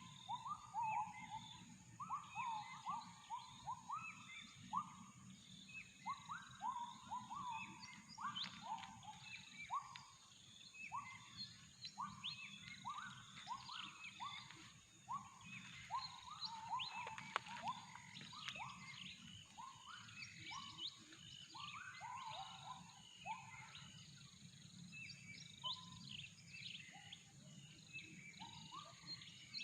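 Tropical forest chorus of many birds chirping and whistling, with gibbons (uwa-uwa) calling in a long series of short rising notes at about one a second. A steady low hum runs underneath.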